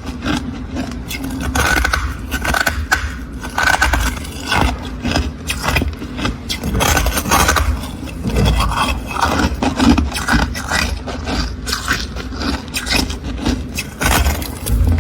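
Freezer frost being scraped off in quick, irregular strokes that run on without a break.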